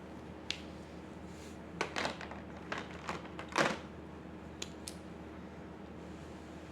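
Pen on paper: a scattered run of short scratchy strokes and clicks, the longest and loudest about three and a half seconds in, over a steady low hum.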